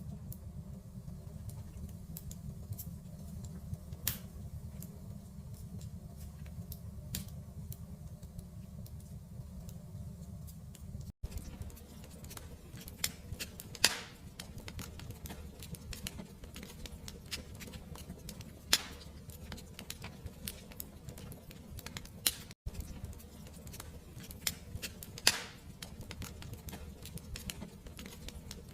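Fireplace fire crackling: a steady low rumble with scattered sharp crackles and a few louder pops. The sound cuts out for an instant twice, where the track is looped.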